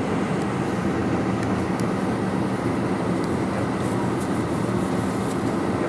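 Steady rumble and hum inside an airliner's cabin on the ground before takeoff, with a few faint clicks.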